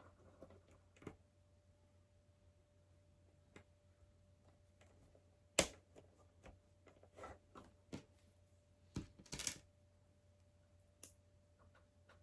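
Scattered clicks and taps of plastic LEGO pieces being handled and pressed together, the sharpest a little over five seconds in and a short run of them around nine seconds.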